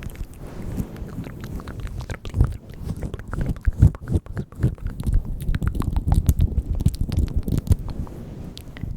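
Close-miked ASMR mouth sounds: a dense run of quick wet clicks and smacks over a low rumble.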